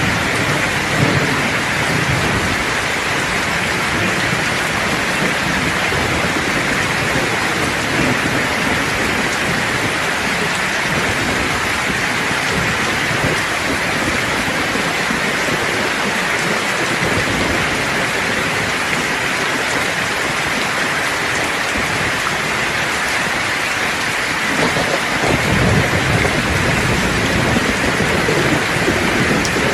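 Steady rain, a dense hiss of drops, with low rolling thunder rumbling at the start and again near the end.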